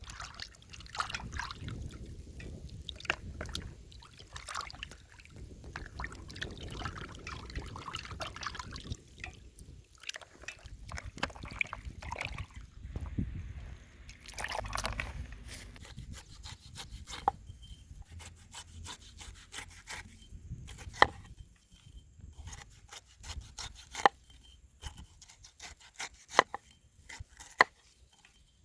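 Food being prepared by hand: scraping and rubbing on a wooden cutting board, with some water sounds, in the first half. Then single sharp knife knocks on the board every second or two.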